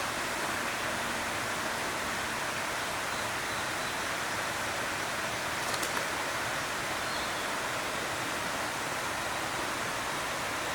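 A steady, even rushing noise, like running water or wind, with a faint click about six seconds in.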